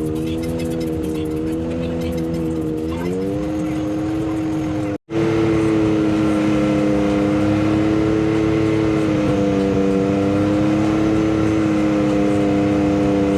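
Vehicle engine running steadily while cruising, its pitch drifting slightly up and down with engine speed. The sound cuts out abruptly for a moment about five seconds in, then carries on louder.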